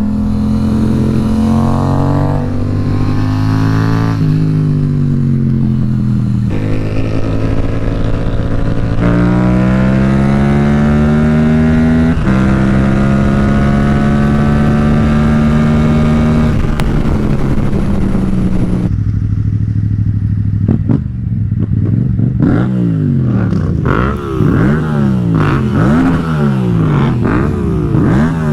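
Yamaha FZ-07 (MT-07) parallel-twin with an aftermarket exhaust accelerating hard through the gears: engine pitch climbs, then drops at each of four upshifts. It holds a steady pitch for a few seconds. In the last third, the revs rise and fall quickly again and again, roughly once a second.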